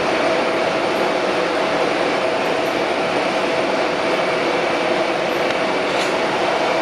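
Steady mechanical whir with a constant hum, holding the same pitch and level throughout.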